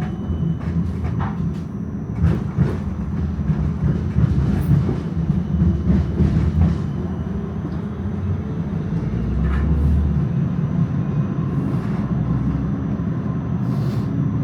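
Melbourne tram running along the rails, heard from inside the car: a steady low rumble with scattered clicks and knocks from the wheels and track.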